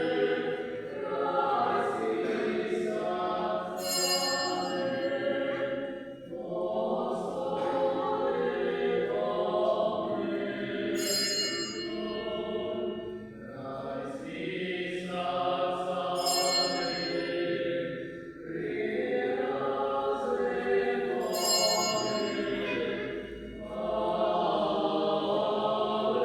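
Church choir singing a liturgical chant in several voices, in long held phrases with brief breaths between them.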